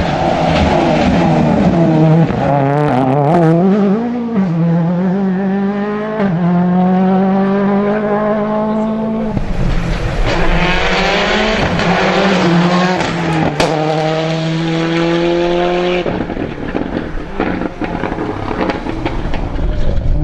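Rally car engines at speed, revving up and dropping back with each gear change; the sound cuts abruptly to another pass about nine seconds in and again near sixteen seconds.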